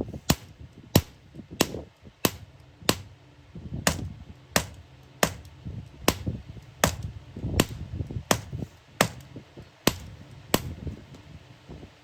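Hammer blows on iron, struck at a steady pace of about one and a half a second, each a sharp ringing strike with a lower thud in between, with a brief gap about three seconds in.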